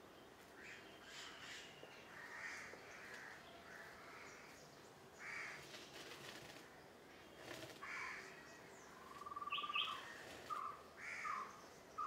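Birds calling outdoors: a series of short repeated calls, growing louder and more frequent in the last few seconds.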